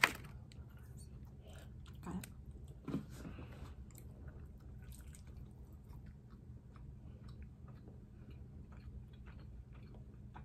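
Soft chewing of a soft mango cream bun, with small wet mouth clicks and smacks. A sharp paper crackle right at the start as a paper baking cup is peeled off a bun.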